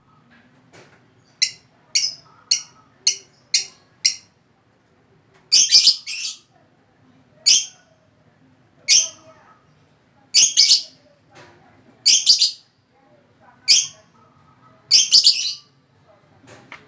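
Lovebird calling: six short, high chirps in quick succession in the first few seconds, then longer high calls about every one and a half seconds.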